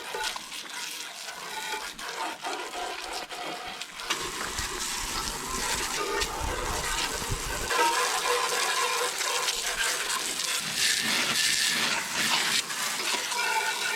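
Garden hose spraying water onto a tractor, a steady rushing spray that grows louder about four seconds in as the jet hits closer.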